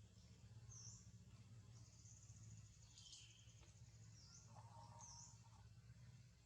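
Faint, high-pitched bird chirps, a few short swooping notes and one call falling in pitch about three seconds in, over a low steady hum.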